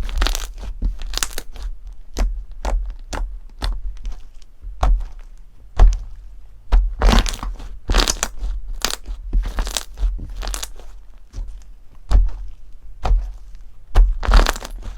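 Crunchy slime being pressed and squeezed, giving a run of irregular crackling crunches with some louder clusters.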